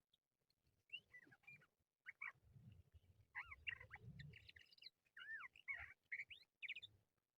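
Crested lark singing: short phrases of clear, sliding whistled notes, repeated with brief gaps between them. A low rumble lies under the phrases in the middle.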